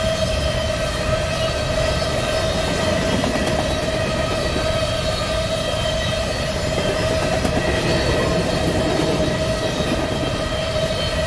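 Empty covered hopper cars of a potash train rolling past: a steady rail rumble with a continuous high ringing tone over it.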